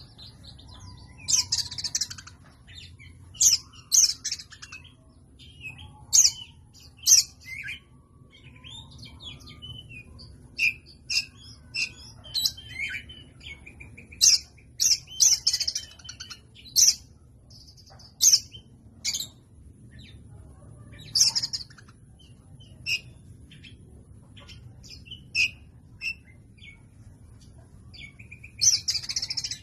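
Oriental magpie-robin (kacer) singing: a long run of loud, varied short whistles and chirps, coming in irregular phrases with brief pauses between.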